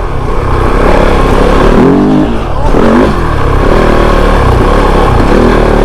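Dirt bike engine running under way, loud, with the revs rising and falling a couple of times around the middle, over a steady rush of wind and riding noise.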